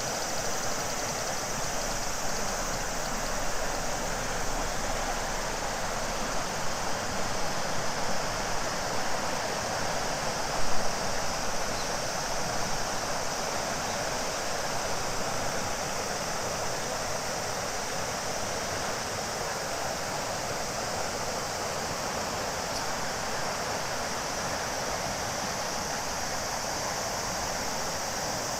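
Shimanto River flowing steadily, a constant rushing of water, with a steady high drone of cicadas above it. A brief louder sound comes about eleven seconds in.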